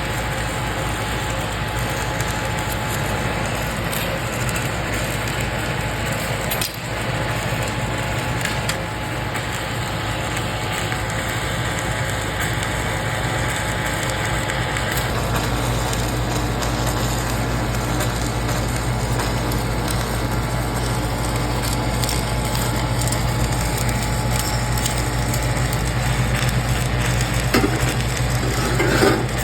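Submerged arc welding in progress: a steady electrical hum from the welding equipment with a continuous crackle of the granular flux burning over the arc. A deeper steady drone comes in about halfway through.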